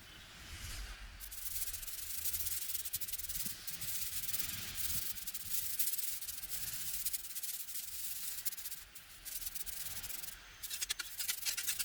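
Something rough being rubbed or scraped against a surface in uneven strokes, a dry hissing scrape. Near the end a quick run of fine crackling clicks joins it.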